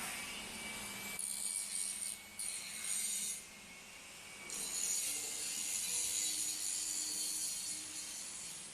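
Workshop metalworking noise: a high, hissing, grinding-like sound from machinery at work. It breaks off for about a second in the middle, then starts again.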